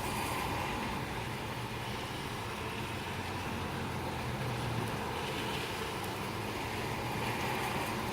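Gusty wind and heavy rain from a passing squall line: a steady rushing noise with a low rumble underneath.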